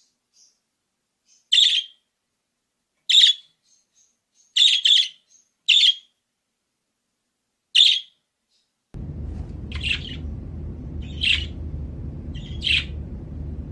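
Budgerigar giving short, separate chirps about every second and a half, two in quick succession about five seconds in. About nine seconds in, a steady low background rumble starts under the chirps.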